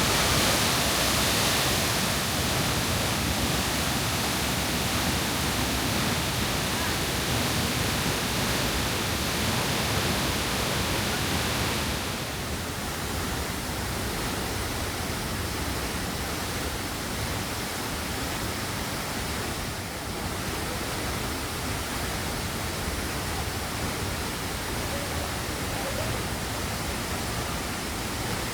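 Steady, loud rush of a large waterfall heard at close range, an even roar of falling water and spray; it turns duller and a little quieter about twelve seconds in.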